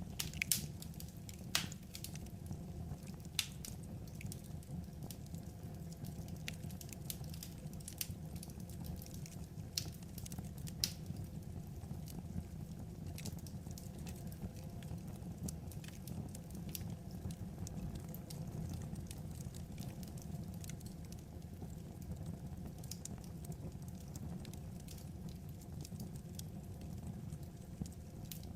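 Wood fire burning and crackling: scattered sharp pops and snaps, a few louder ones in the first dozen seconds, over a steady low rumble.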